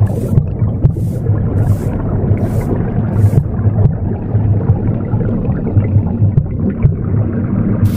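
Womb sound, a steady low rumbling whoosh, mixed with a broom sweeping in short, even strokes about every 0.7 seconds. The sweeping stops about three and a half seconds in, leaving only the womb rumble.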